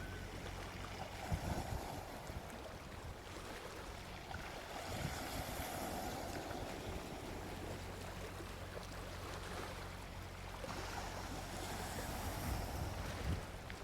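Gentle sea waves washing onto a beach, swelling and fading twice, with a few low thumps about a second and a half in and again near the end.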